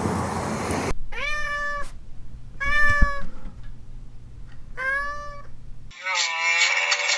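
A domestic cat meowing three times, each meow under a second long with a rise and fall in pitch. Before the first meow there is about a second of noisy rumble, and about six seconds in a different sound with a falling pitch cuts in.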